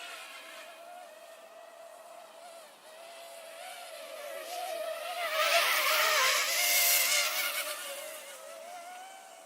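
Parrot Mambo quadcopter minidrone's propellers whining in flight, the pitch wavering as it manoeuvres. It grows much louder about halfway through as it comes close, loudest around two-thirds of the way in, then fades back to a steady whine.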